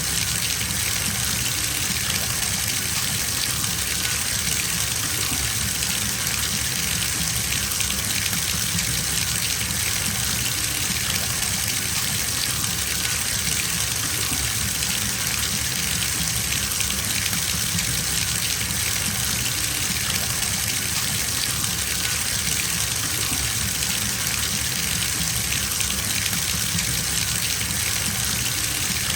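Bathtub filling from a running tap: a steady gush of water pouring into the tub, constant and unchanging.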